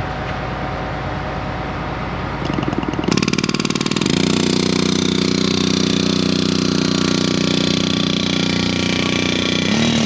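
An engine starts about three seconds in, stuttering for a moment, then runs steadily, louder than the rumble that was there before.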